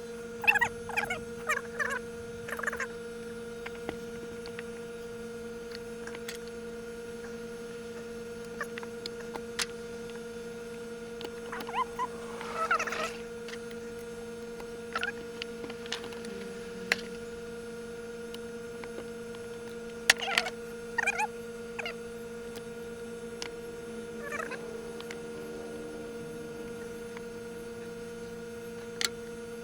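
A steady hum runs throughout under scattered clicks and short clattering bursts, like small metal parts and hand tools being handled during work on an ATV engine.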